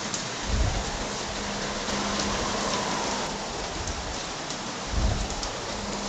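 Heavy tropical rain pouring down steadily, a dense even hiss. Strong wind gusts rumble on the microphone twice, about half a second in and again near the end.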